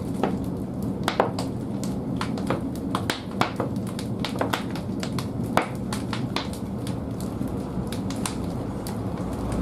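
Large firewood logs burning in a wood-fired bathhouse boiler's firebox: irregular sharp crackles and pops, several a second at times, over a steady low rumble of the fire.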